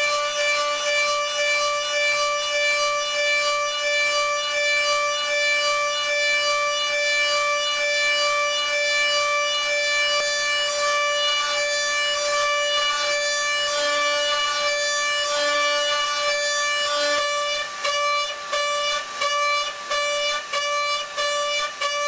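High-frequency spindle of a DATRON M8Cube CNC milling machine high-speed milling aluminium, giving a loud, steady, high-pitched whine. From about 18 seconds in, the sound breaks off briefly again and again.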